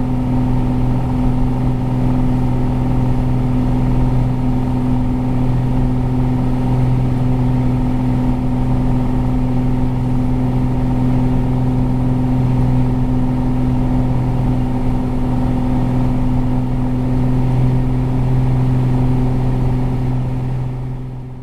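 Piper Cherokee Six 300's six-cylinder Lycoming engine and propeller running steadily at climb power, about 2500 RPM, as one even drone. It fades out in the last second.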